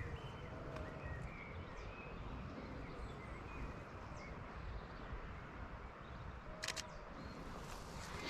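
Faint bird chirps over a steady low outdoor rumble, with a couple of sharp clicks near the end.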